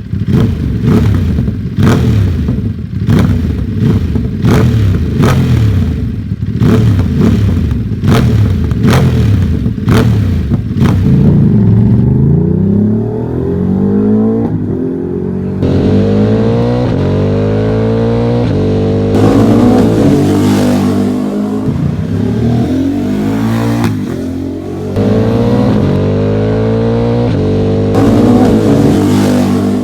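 Ducati Monster Plus V-twin running through an aftermarket full exhaust with dual mufflers, revved in quick blips about one and a half times a second, each with a sharp crack, for the first ten seconds or so. It then changes to longer revs that rise and fall in pitch.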